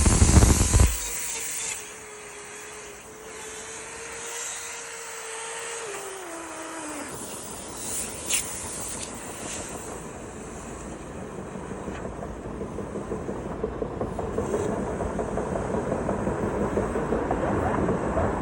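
Dryer-vent cleaning equipment running: after a loud bump at the start, a steady motor whine holds, then drops in pitch about six seconds in, and gives way to a rough, fluttering rush that grows louder.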